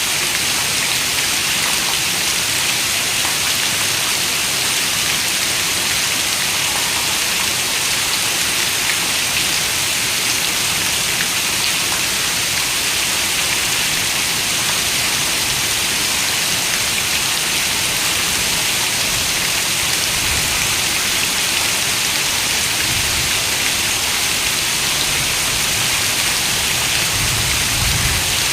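Steady rain falling: an even, unbroken hiss of many raindrops. A few brief low rumbles come in during the last third.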